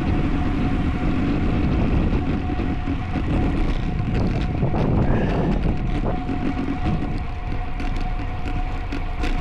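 Wind rushing over the microphone and road noise from a road bike ridden at race speed, as a steady loud rumble, with a thin steady hum running under it.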